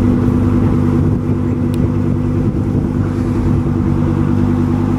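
Car engine idling steadily, loud and close by, its sound sitting low and pulsing evenly.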